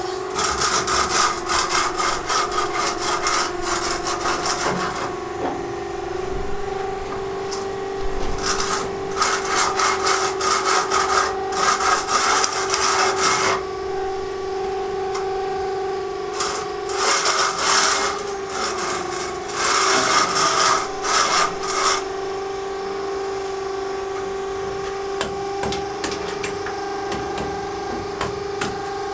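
A steady machine hum, with four bouts of rapid rasping, scraping strokes on what sounds like wood, like sawing or filing, separated by short pauses.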